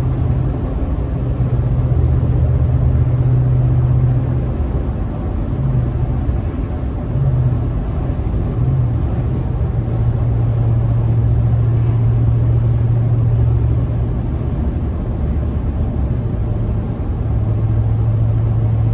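Pickup truck driving: a steady low engine hum with road noise, heard from inside the cab. The hum briefly drops away a few times partway through.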